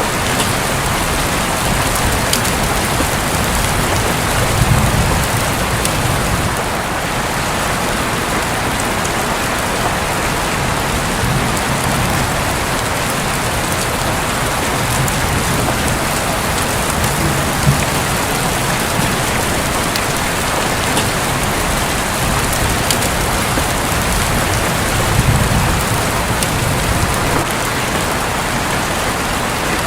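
Steady rain falling on a roof, with a few low rumbles of thunder swelling under it.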